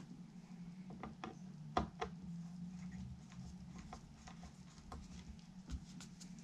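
Scattered light clicks, taps and rubbing of tools and small parts being handled on a workbench during guitar assembly, the sharpest knock just under two seconds in, over a steady low hum.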